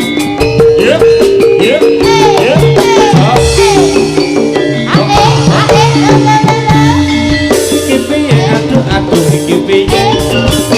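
Live jaranan ensemble music: drums keep a steady beat under held metallophone and gong notes, with a sliding melody line over the top.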